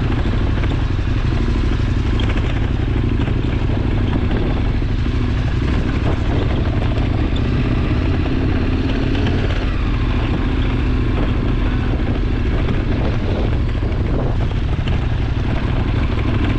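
KTM 1290 Super Adventure R's V-twin engine running steadily.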